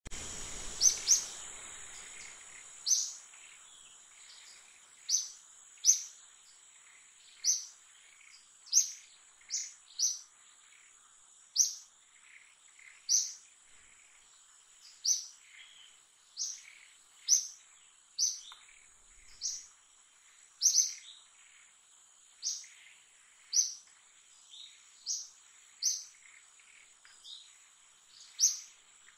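A bird repeating a short, sharp, high chirp every second or two, over a thin steady high-pitched whine.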